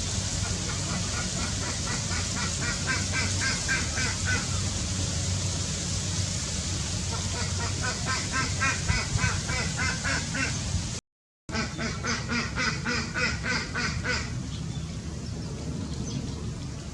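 Birds calling in three bouts of rapid, evenly repeated short calls, over a steady low hum.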